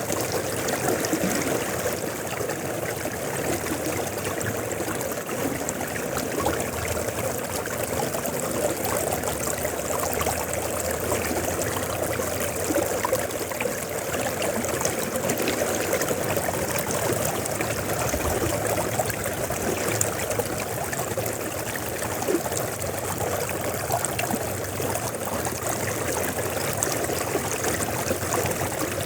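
River water flowing and babbling steadily.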